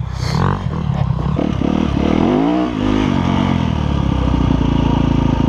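Motocross dirt bike engine pulling away under throttle. Its pitch climbs and drops about two seconds in, then it runs steadily at high revs near the end.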